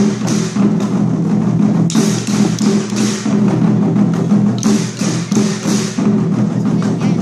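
Chinese war drums (zhangu) played by a drum troupe: fast, dense drumming with bright crashes high up coming about every second or two.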